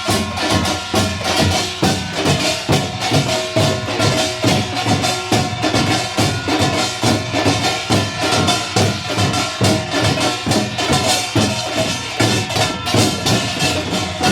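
Korean pungmul percussion ensemble of drums and gongs playing a fast, steady rhythm, with a ringing metallic gong tone sustained over dense drum strokes.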